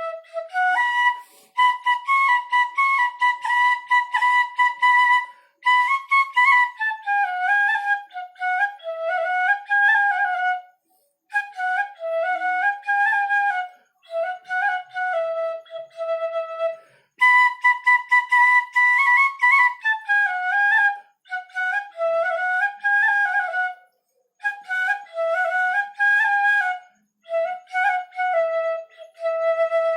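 Bansuri (Indian bamboo flute) playing a Hindi film-song melody alone, in phrases of a few seconds with short gaps between them.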